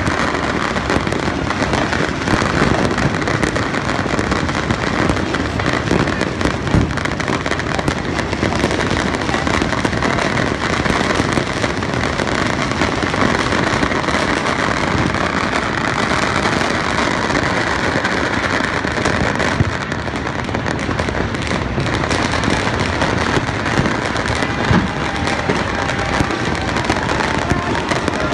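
Many fireworks and firecrackers going off all across a city at once, their crackling and popping merging into a steady, unbroken din, with a few louder bangs standing out.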